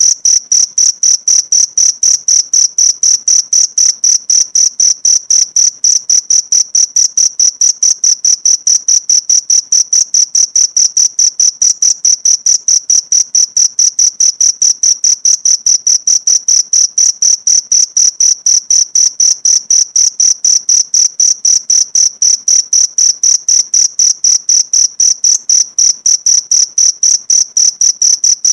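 Cricket (jangkrik) chirping steadily, a rapid even train of high-pitched pulses at about four to five a second, as used in a tutor recording for training songbirds.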